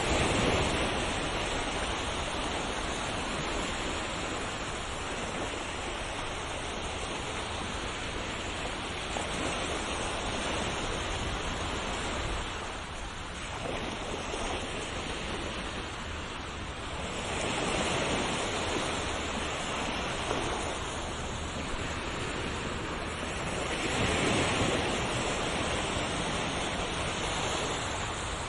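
Sea waves breaking on a shore in a continuous wash, swelling louder about every six to seven seconds as each wave comes in.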